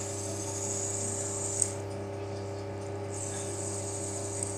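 Fidget spinner's bearing whirring in a high hiss while it spins, cut off by a sharp click about a second and a half in, then whirring again from about three seconds in. A steady low hum runs underneath.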